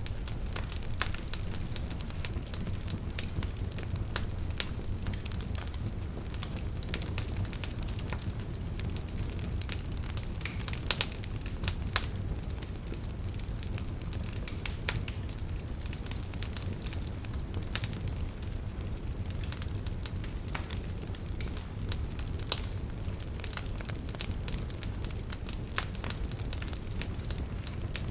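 Wood fire burning in a fireplace: a steady low rumble of the flames under irregular sharp crackles and pops, with a few louder pops around 11 seconds and about 22 seconds in.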